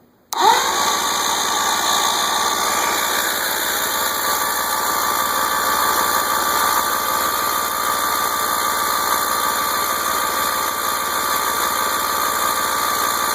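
Electric starter cranking a Mercury 90 three-cylinder two-stroke outboard, kicking in sharply about half a second in and spinning at a steady whine. The engine does not catch: it has no spark.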